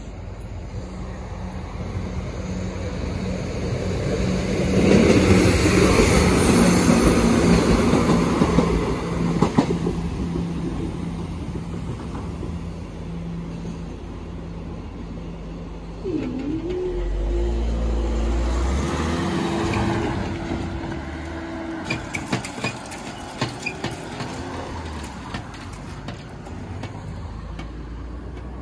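Train passing over the level crossing, loudest about five to nine seconds in, over a steady low hum. About sixteen seconds in a deep hum and a steady tone start as the crossing barriers rise, followed by a few sharp clicks.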